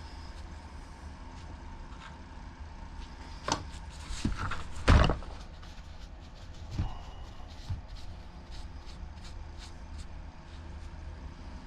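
A few short knocks and clicks from small parts and tools being handled on a workbench, the loudest about five seconds in, over a steady low hum.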